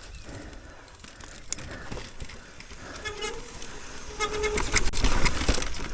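Mountain bike rolling down a dirt trail: tyre and wind noise that builds as speed picks up about five seconds in, with two brief pitched whines from the bike about three and four seconds in.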